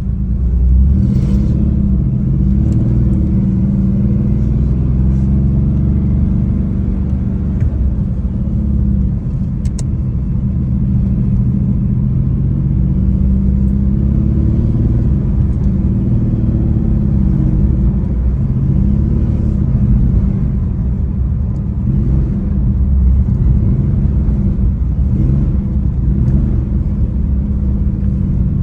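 Porsche 964's air-cooled flat-six engine pulling through the gears, its note climbing under acceleration and dropping at each upshift, again and again.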